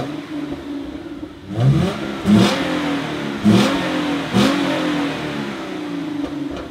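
Exhaust of a 2014 Hyundai Genesis Coupe 3.8 V6 firing up with a flare, then idling and taking four quick throttle blips, each rising sharply and falling back to idle, before settling into a steady idle.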